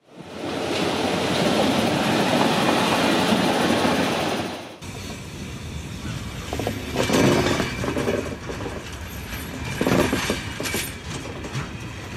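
A train running on rails: a loud, even rush for the first few seconds, then after an abrupt change a quieter rolling sound with rapid clicks of wheels over rail joints, swelling louder twice.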